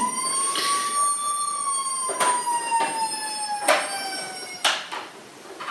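A siren-like wail: one long tone that rises slightly, then falls slowly over about four seconds. A few sharp plastic clicks and knocks from toys being handled sound over it.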